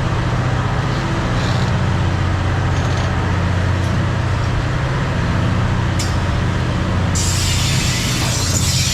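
Train running with a steady low engine drone; a loud hiss sets in about seven seconds in.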